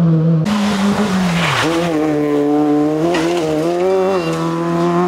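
Fiat Cinquecento rally car's engine running hard. The revs fall steeply about a second and a half in, then rise again through a gear change and hold high.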